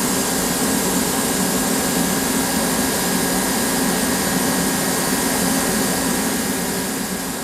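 Machinery running steadily: an even whirring hiss over a low hum, easing off slightly near the end.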